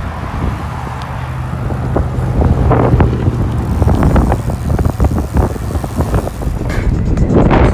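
A vehicle running with a steady low hum, with wind buffeting the microphone and irregular knocks.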